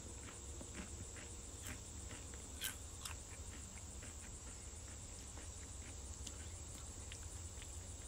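A person chewing Pringles potato crisps with the mouth closed: soft, regular crunching clicks, about three a second, with one sharper crack about two and a half seconds in.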